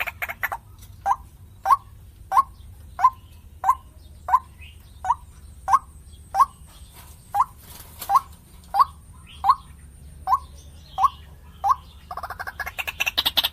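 White-breasted waterhen (ruak-ruak) giving a steady series of short single call notes, about one every two-thirds of a second, sixteen or so in all. Near the end the series stops, and a faster, busier run of calling begins.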